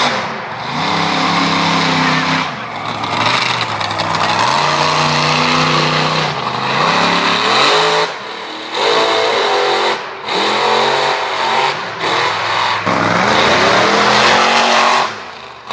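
Mega mud truck's engine revving hard through a mud pit, its pitch climbing and falling repeatedly with the throttle and dipping briefly every couple of seconds.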